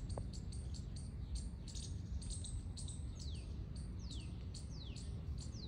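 Birds chirping with many short, high calls. From about halfway through, a falling whistled call repeats four times, under a second apart, over a low steady background rumble.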